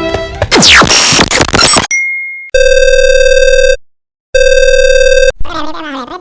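A string of edited sound effects: a loud falling whoosh, a short high beep, then two long buzzing ring tones like a telephone ringing, with a brief silence between them. A wobbling, warbling voice-like sound follows near the end.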